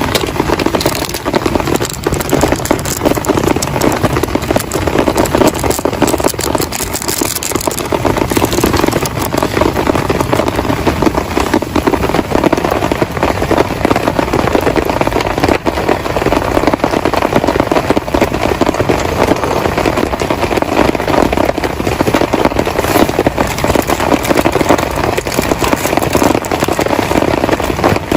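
Heavy rain falling steadily, a dense, unbroken crackle of countless drop impacts.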